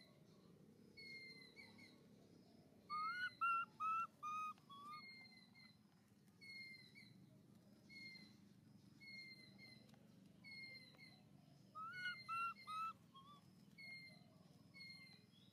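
Birds calling: a short falling whistled note repeats about every second and a half. Twice, about three seconds in and again some nine seconds later, there is a louder run of five quick whistled notes.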